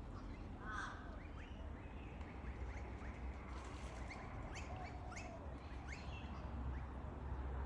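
Blue-faced honeyeaters calling: a string of short chirps and quick sharp notes, with a harsher call about a second in, over a steady low rumble.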